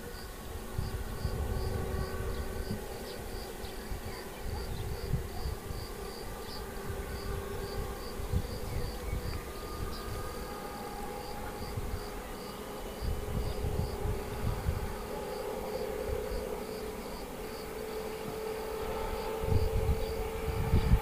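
Distant electric locomotive-hauled passenger train running with a low rumble and a faint steady hum, growing louder near the end. An insect chirps steadily about twice a second throughout.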